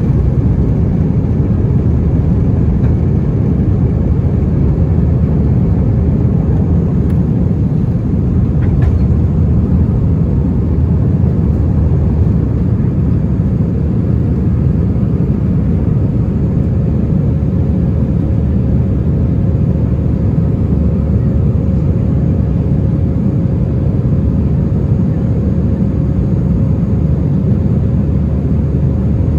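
Steady cabin noise inside an Airbus A319 airliner: a low, even rush of engines and airflow with a faint steady hum above it.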